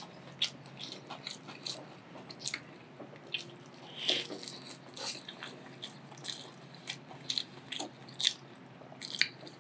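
Chewing a mouthful of spicy tuna hand roll wrapped in roasted seaweed, with many short, irregular mouth clicks and crunches.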